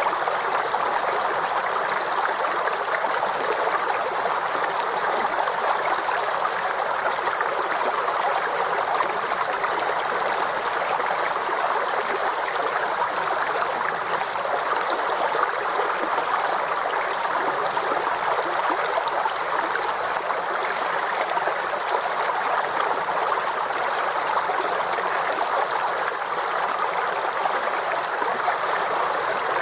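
Forest stream flowing: steady babbling and gurgling water, even throughout.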